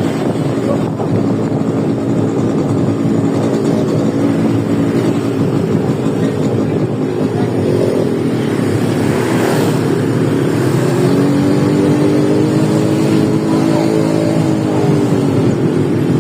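Motorcycle engine running steadily while riding, with wind on the microphone; about eleven seconds in the engine pitch rises, holds, then falls away near the end.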